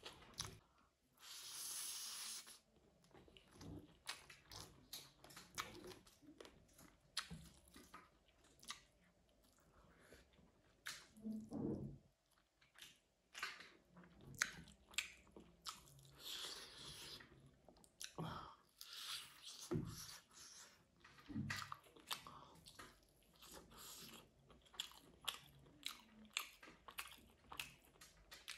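Close-miked chewing of a person eating rice and buffalo curry by hand, with many small irregular mouth clicks and smacks, and a short hissing burst about two seconds in.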